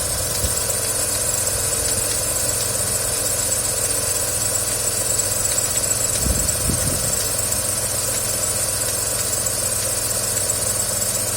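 Engine idling steadily with a knock that, according to the owner, has come back. There are low thumps about half a second in and a stronger cluster around six to seven seconds in.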